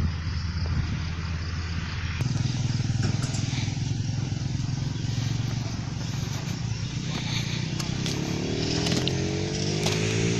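Diesel engine of a Hino concrete mixer truck running steadily. From about eight seconds in, the engine revs up with a rising pitch.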